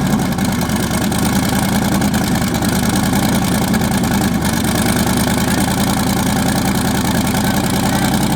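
LS-swapped twin-turbo Mercedes E63 AMG's V8 idling steadily and loudly just after start-up, its exhaust exiting through holes cut in the front bodywork.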